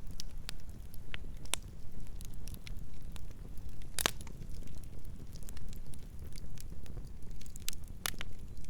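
Wood fire burning with a steady low rumble and scattered sharp crackles and pops, two louder pops about four seconds in and near the end.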